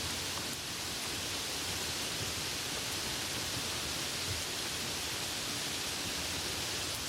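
Soft rain falling steadily, an even hiss with no breaks.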